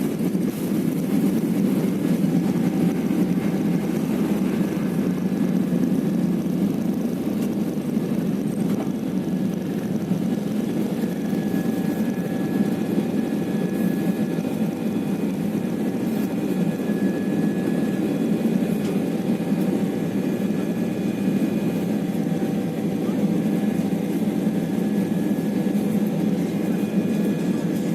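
Passenger aircraft's engines and airflow heard inside the cabin during takeoff: a steady low noise with faint steady whining tones above it.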